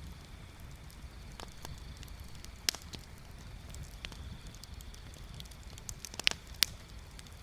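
Wood bonfire crackling with scattered sharp pops: a loud one under three seconds in and two more close together near the end, over a low steady rumble.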